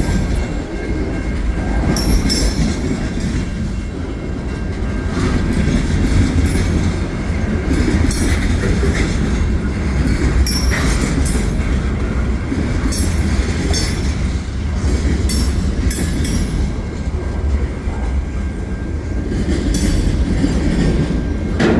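CN freight train cars rolling past close by: a steady low rumble with frequent sharp clacks and knocks from the wheels and couplers, and a faint steady high whine.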